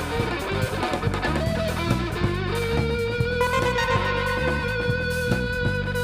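A rock band playing live, led by electric guitar over a bass line, with a long held note from about halfway in.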